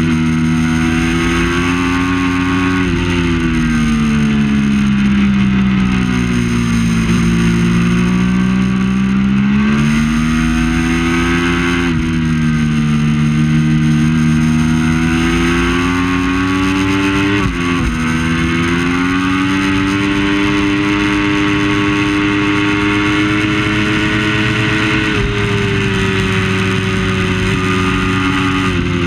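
Triumph Daytona 675 three-cylinder engine running hard, its pitch slowly sagging and climbing again over several seconds at a time. About two-thirds of the way through there is a brief sharp dip in pitch and loudness.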